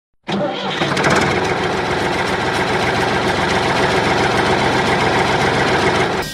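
An engine idling steadily, cutting in suddenly just after the start.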